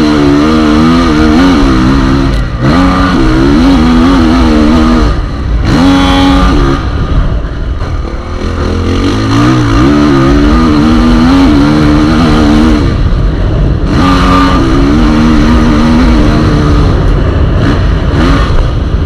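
Motocross bike engines revving hard, their pitch climbing and dropping again and again as the bikes accelerate and shift, over a heavy low rumble.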